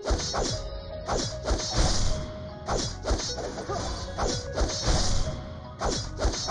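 Repeated sharp knocks or whacks, unevenly spaced at about two a second, over background music.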